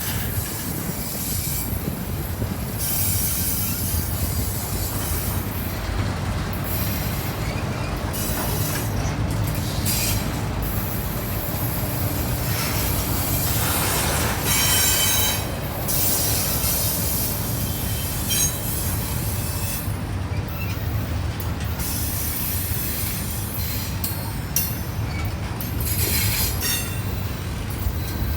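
Norfolk Southern intermodal freight train rolling past: a steady low rumble of the cars on the rails, with high-pitched wheel squeals that come and go, loudest about halfway through.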